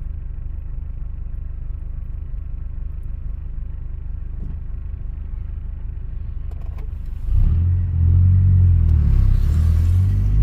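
Saturn Ion's engine idling with a steady low drone, then about seven seconds in the car pulls away in first gear and the engine gets suddenly louder under load. A rushing hiss rises near the end.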